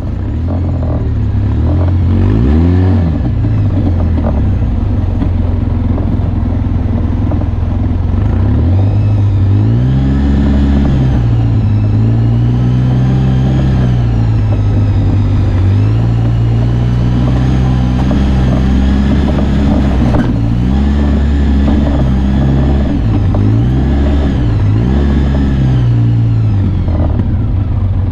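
Off-road vehicle engine running under way, revving up and down again and again, its pitch rising and falling every few seconds.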